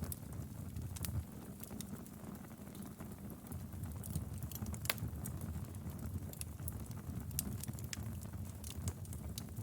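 Wood fire crackling in a fireplace: irregular sharp pops and snaps over a steady low rumble of the flames, with one louder pop about five seconds in.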